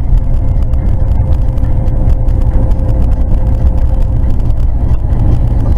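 Steady low rumble of a vehicle on the move, engine and road noise picked up inside the cab by a dash cam, with a faint steady hum above it.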